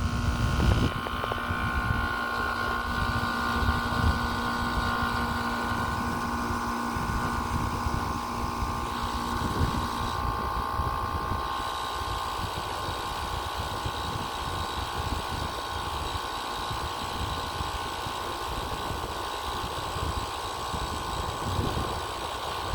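Outdoor central air-conditioner condenser unit running: a steady hum with several high whining tones over a rumbling low end, and a lower tone that drops out about nine and a half seconds in. It runs loud, which the owner takes for a sign that the unit is struggling.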